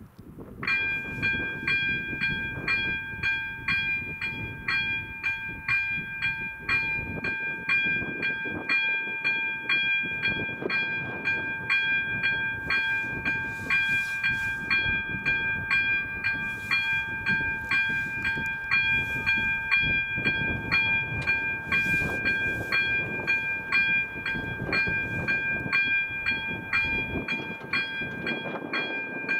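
Level-crossing warning bell of an AŽD 97 crossing starting up about a second in and ringing on in quick, even strokes, signalling that a train is approaching. A low rumble runs underneath.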